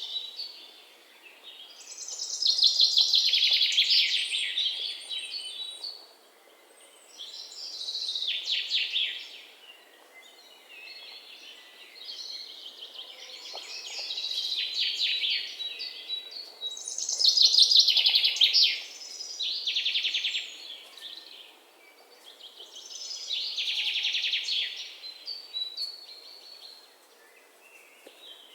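Songbird singing in repeated phrases of fast, trilled high notes, each about two seconds long, coming every few seconds with short pauses between.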